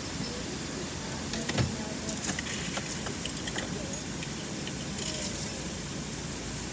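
Automatic car wash heard from inside the car: a steady wash of spray noise with scattered clicks and rattles on the bodywork, and one louder knock about a second and a half in.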